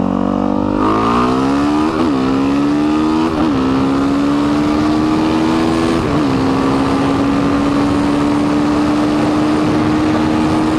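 Suzuki DRZ462 single-cylinder four-stroke engine with an MRD exhaust, accelerating hard. Its pitch rises, dips briefly at three upshifts about 2, 3.5 and 6 seconds in, then holds steady at high revs.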